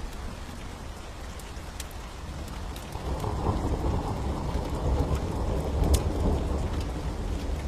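Steady rain with rolling thunder: a deep rumble that swells about three seconds in and rolls on. Scattered sharp clicks sound over it.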